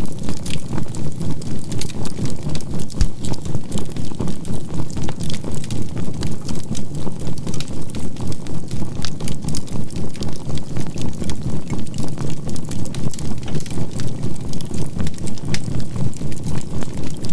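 Campfire crackling and popping over a low, steady hum whose loudness pulses evenly about three times a second, a synthesized healing-tone and binaural-beat mix.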